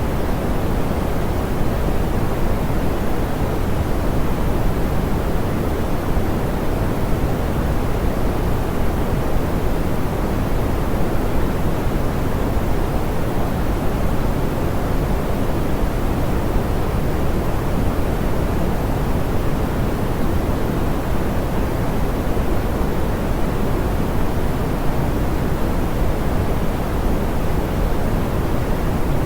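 Steady, smoothed pink noise: an even hiss, weighted toward the low end and softer in the highs, with no changes.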